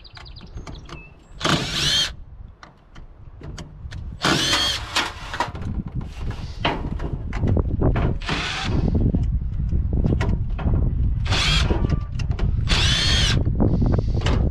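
Power drill running in about five short bursts, its whine rising and falling in pitch, with scattered clicks and knocks between the bursts.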